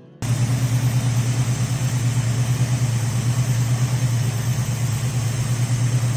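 1974 Plymouth Barracuda's 360 V8 idling through its Flowmaster Series 40 exhaust, a steady, evenly pulsing rumble that starts suddenly just after the beginning.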